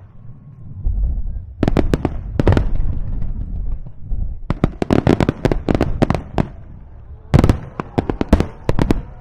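Aerial fireworks shells bursting in three rapid clusters of sharp bangs, with a low rumble rolling between them.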